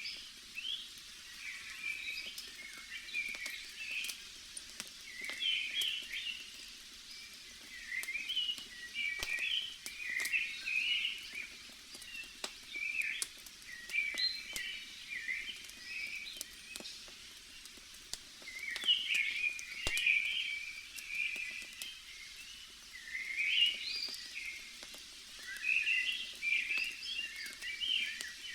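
Forest birds singing in bursts of chirping phrases every few seconds over a faint steady hiss, with scattered sharp pops and crackles from a campfire.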